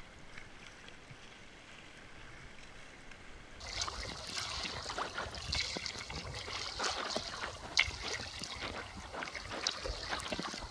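Faint water noise at first. Then, about three and a half seconds in, it gives way to louder sea kayak paddling: irregular splashes of paddle blades dipping into the sea.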